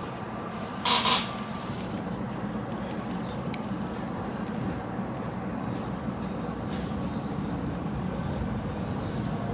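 Passenger train carriage interior: a steady rumble with a low hum, and a short sharp hiss of air about a second in.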